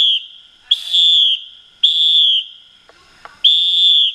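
Train door-closing warning alarm: a high, steady-pitched beep repeated about once a second, four times, signalling that the doors are closing and the train is about to depart.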